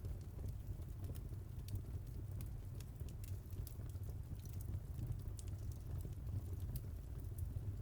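Wood fire in a fireplace crackling, with scattered irregular snaps and pops over a steady low rumble.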